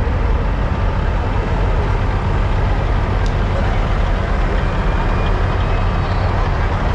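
Steady low rumble of semi truck diesel engines idling, with a crowd's voices murmuring underneath.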